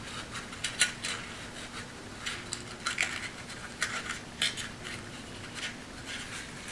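Cardstock and mat-board pieces being handled and bent into a curve: scattered light taps, crinkles and rubs of paper.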